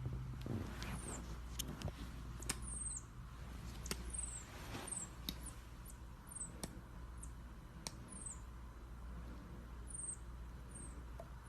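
A small animal making short, high-pitched chirps or squeaks, each sweeping down in pitch, about one a second, with a few light ticks between them.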